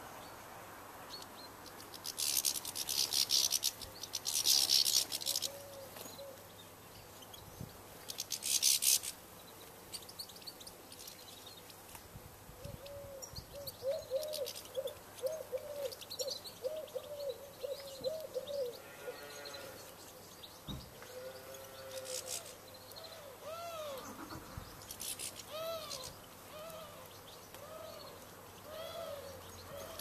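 Wild garden birds calling around a bird table: loud bursts of high, fast trilling song early on, then a long series of short, low, repeated call notes, quick at first and later about one a second.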